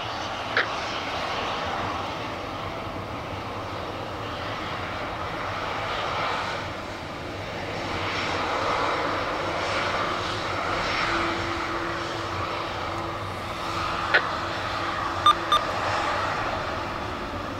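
Jet airliner engines running, an even noise that swells and eases gently, with a few short clicks near the end.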